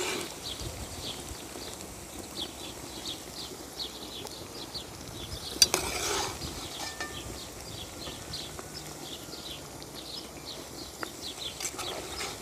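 A small bird chirping over and over, two or three short high chirps a second. A single sharp knock, with a brief clatter after it, about halfway through.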